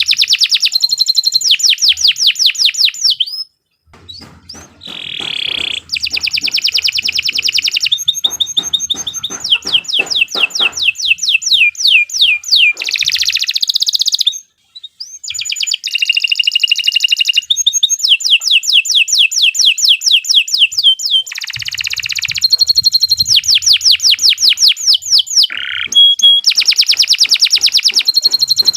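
Domestic canary singing a long, loud song of fast trills and rapidly repeated high notes, with sweeping glides up and down, breaking off briefly twice.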